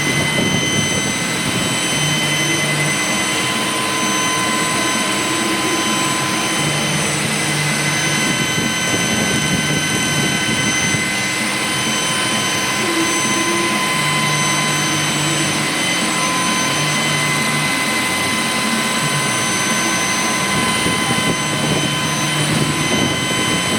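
A machine running steadily: an even hiss with several fixed high-pitched tones, and a low hum that comes and goes every few seconds.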